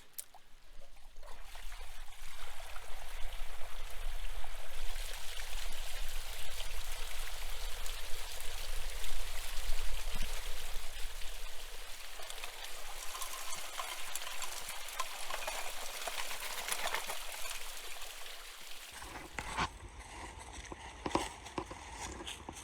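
Water pouring and splashing steadily through a small pump-fed sluice box, over a low steady hum. About nineteen seconds in, the rush and hum stop abruptly, leaving fainter water and a few knocks.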